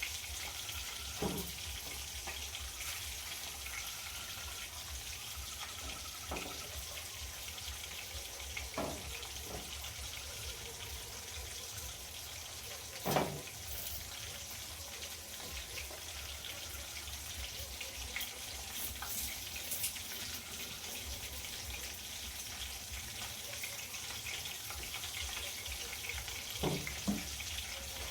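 A steady, watery hiss with a few short knocks scattered through it; the loudest knock comes about halfway through.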